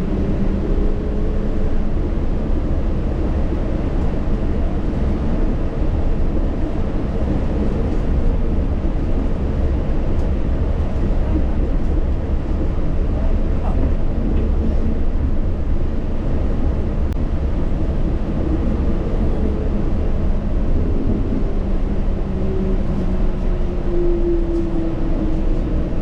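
Yurikamome rubber-tyred automated guideway train running, heard from inside the front of the car: a steady low rumble of the tyres on the guideway with a motor whine that rises in pitch at the start and falls away near the end as the train slows.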